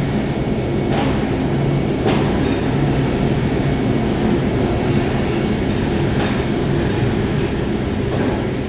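Aircraft engines running steadily with a low droning hum, heard muffled through the cafe's window glass, fading slightly near the end.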